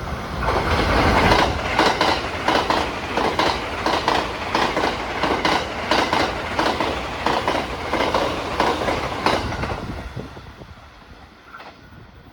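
A train passing close by, its wheels clacking over the rail joints in a rapid run of clicks, then fading away after about ten seconds.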